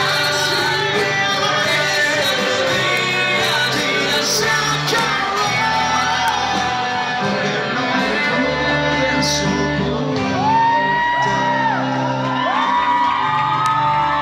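Live band playing the closing stretch of a Spanish-language song, with bass and guitar, and shouts and whoops over the music.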